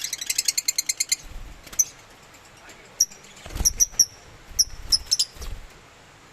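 Lovebirds chattering: a fast run of short, high chirps, about ten a second, for the first second, then scattered single chirps with a few low thumps among them.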